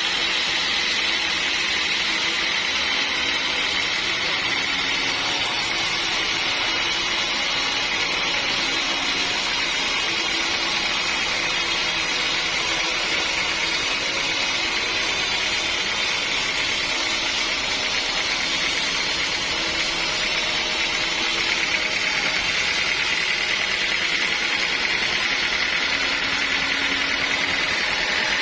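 Sawmill saw running steadily through a large timber log, a continuous machine noise with a high whine that grows a little stronger about three-quarters of the way through.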